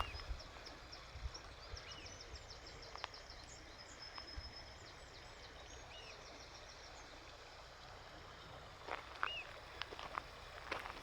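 A small bird twitters in quick, high trills over a faint steady hiss of outdoor noise, with a few short chirps. Near the end come a few footsteps.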